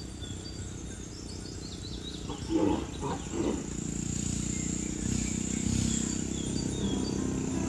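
Cattle lowing: two short calls close together about two and a half seconds in, over a steady low rumble.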